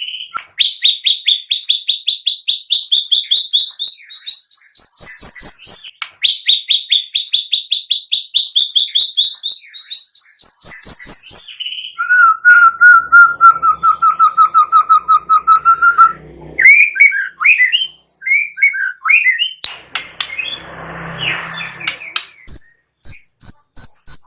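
Songbird song: two long runs of rapid repeated high notes that climb steadily in pitch, then a lower wavering trill about halfway through, followed by short varied whistled phrases and a brief rough noisy stretch near the end.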